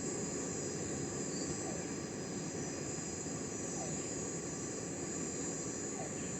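Steady rainforest ambience: a constant high insect drone over a low rumble, with faint short falling notes about every two seconds.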